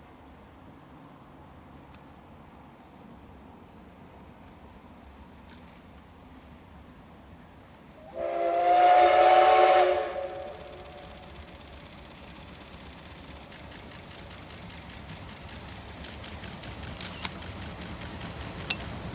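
Steam locomotive C61 20 sounds its whistle once, a loud blast of about two seconds with several tones at once, about eight seconds in. Afterwards the rumble of the approaching train slowly grows, over a faint background of insects chirping.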